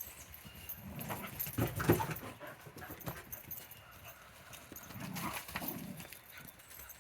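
Dogs romping in play: quick, irregular footfalls and scuffling in two bursts, about a second in and again around five seconds in.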